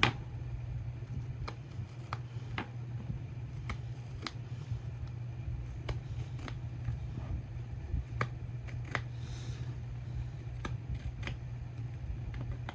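Scattered light clicks and taps of plastic storage cases and their small containers being handled and set in place, over a steady low hum.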